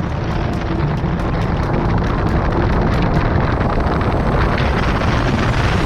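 Heavy thunderstorm rain pouring down, with wind buffeting the microphone: a loud, steady rush with a deep rumble underneath.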